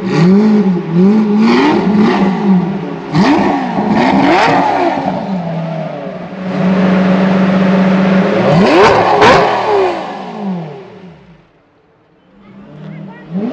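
Lamborghini Murcielago 6.2-litre V12 with an aftermarket Power Craft exhaust, free-revving while parked: a string of quick blips from idle, a steady idle, then one bigger rev. The sound falls away to quiet near the end.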